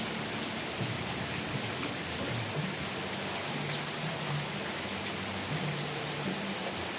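Steady rain, an even hiss of drops falling on surfaces, with faint low humming tones coming and going underneath.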